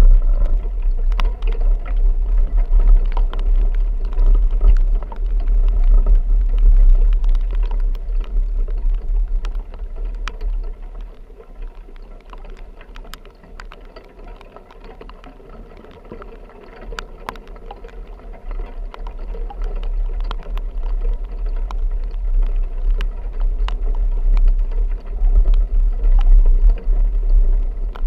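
Low rumble of a vehicle driving, heard from inside, with scattered sharp ticks; it fades for several seconds midway, then builds again.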